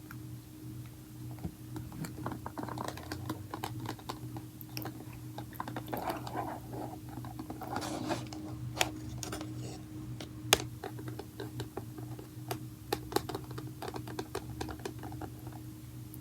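Fingernails tapping and scratching on packaging: a fast, irregular run of small sharp clicks, with a stretch of rustling handling around the middle.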